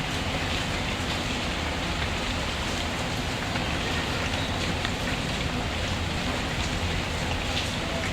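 Steady rain falling, with small scattered ticks of drops and faint crackles of a wood fire mixed in.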